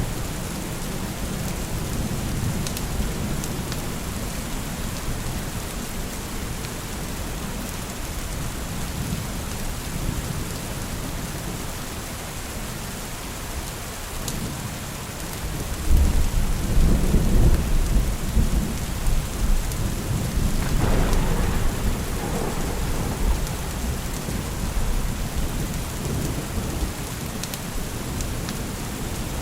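Steady rain with rolling thunder. About halfway through, a louder thunderclap breaks in suddenly and rumbles on for several seconds.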